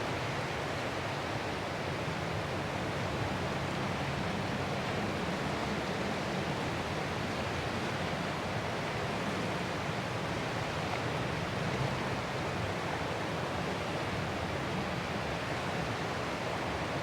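Ocean surf, a steady, even rush of washing waves with hardly any rise and fall and no single wave standing out.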